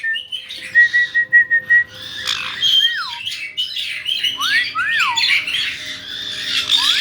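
Caique parrots squawking and whistling: a quick run of short high chirps, then several rising-and-falling whistled notes among harsh squawks.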